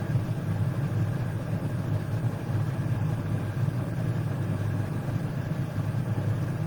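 A steady low mechanical hum with a slightly rough, rumbling texture.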